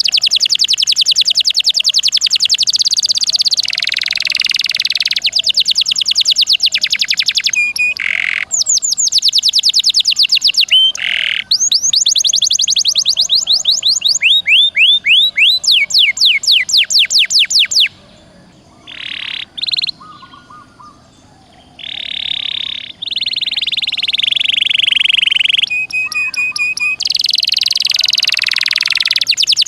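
Domestic canary singing a long song of rapid trills and rattling rolls, repeated notes sweeping in pitch, with a short pause about two-thirds of the way through before the song picks up again.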